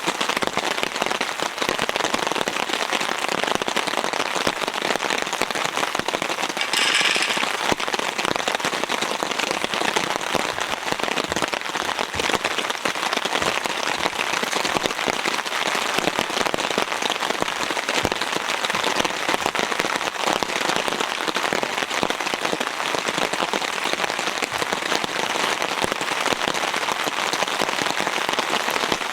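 Heavy rain falling steadily, a dense patter of drops. There is a brief louder hiss about seven seconds in.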